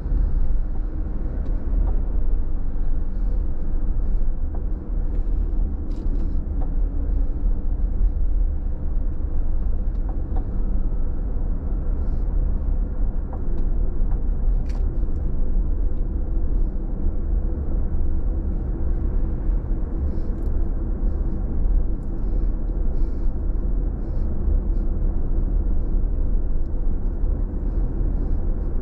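Car driving on a wet road, heard from inside the cabin: a steady low rumble of tyres and engine, with faint, scattered light ticks over it.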